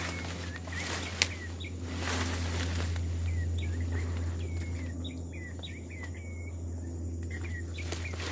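Brush cutter engine idling with a steady low hum between cuts, while a bird chirps over it in many short repeated calls. A single sharp click comes just after a second in.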